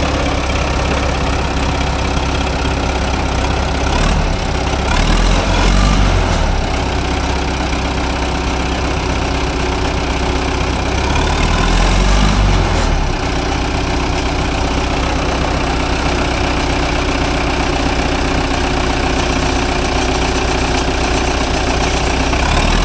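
Engine running steadily under load, revving up twice, about five and twelve seconds in.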